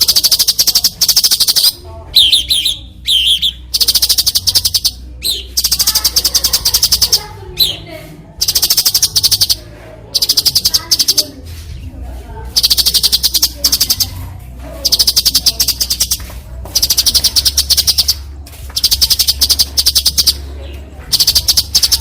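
Cucak cungko giving harsh, rasping 'besetan' calls: repeated buzzy rattles of about one to two seconds each, high-pitched and made of rapid pulses, with short gaps and a few quick rising notes in between.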